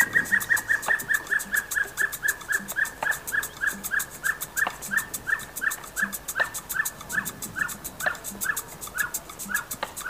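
A bird calling a long run of short, evenly spaced whistled notes, about three a second, slowing a little towards the end.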